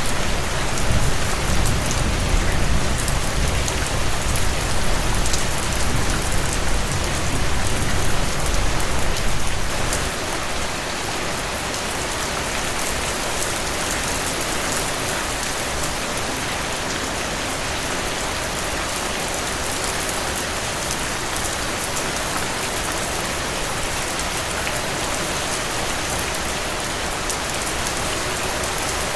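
Steady heavy rain falling on a surface, a dense even hiss. A low rumble sits under it for the first ten seconds or so and then fades out, leaving the rain alone.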